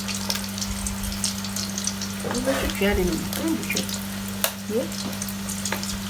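Meat pies frying in hot oil, sizzling with many small crackles over a steady low hum. A faint voice can be heard briefly in the middle.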